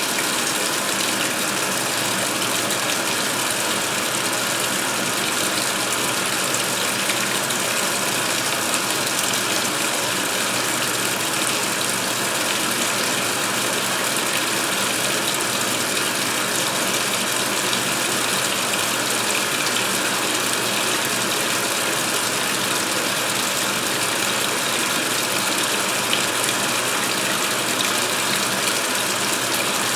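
2016 Speed Queen top-load washer filling with water for the rinse: a steady rush of water pouring from the fill valve into the tub.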